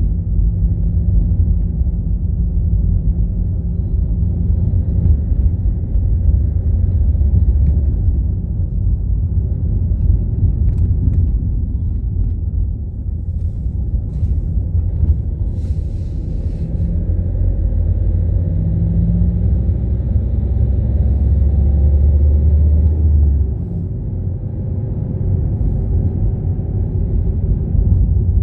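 Car driving: a steady, deep engine and road rumble. It eases off somewhat about three-quarters of the way through.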